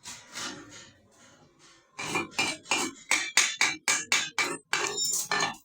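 Metal tapping on metal: a quick run of sharp, slightly ringing metallic taps, about four a second, starting about two seconds in.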